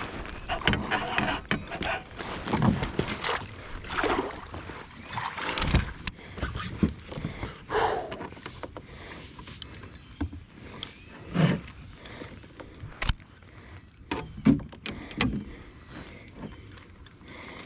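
Irregular clicks, knocks and light rattles, a second or two apart, with a few heavier thumps.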